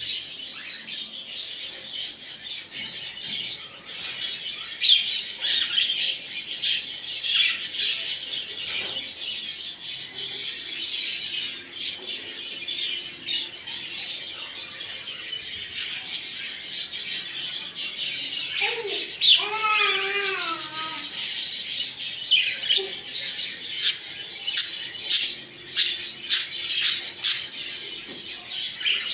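Budgerigars chattering and warbling continuously, a dense stream of quick high chirps and twitters, with one longer wavering call about two-thirds of the way through. The chatter is the kind played to encourage a male budgie to breed.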